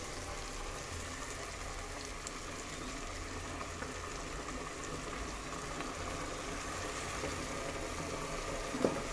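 Chicken and masala cooking in an open aluminium pressure cooker on a gas burner, giving a steady low sizzling hiss, with one brief soft knock near the end.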